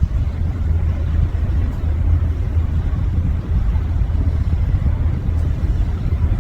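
Steady low rumble of a vehicle driving, with no distinct events.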